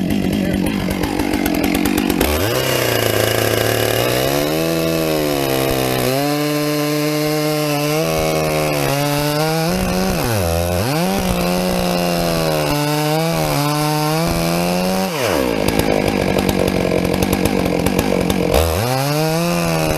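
Two-stroke chainsaw running and cutting a walnut log. Its engine pitch rises and falls with throttle and load, dips sharply about ten seconds in, and goes to a rougher, noisier sound for a few seconds before it revs up again near the end.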